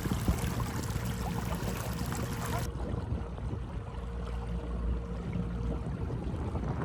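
A small flat-bottomed boat moving along a calm creek, with water lapping and rippling at the hull and a faint steady hum underneath.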